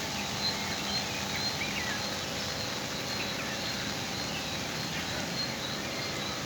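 Heavy rain falling steadily, an even hiss, with a high, short note repeating every half-second or so and a few small bird chirps over it.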